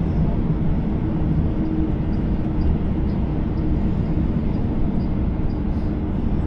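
Steady rumble of a double-decker electric passenger train running, heard from inside the carriage, with a faint low hum under it.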